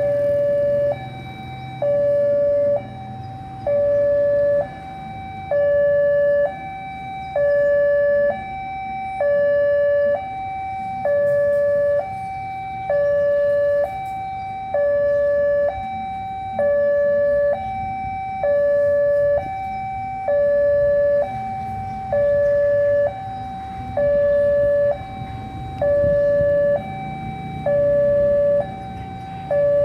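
Electronic railway level-crossing warning alarm sounding a steady two-tone signal: a higher and a lower note alternate evenly, about one high-low cycle every two seconds, with the lower note louder. This signals that the crossing is closing for an approaching train. A low rumble of road traffic runs underneath.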